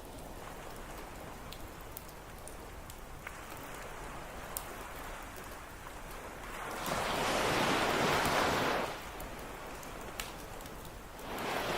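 Ocean surf washing onto the beach, one wave surging up about seven seconds in and another building near the end, over a campfire crackling with scattered sharp pops.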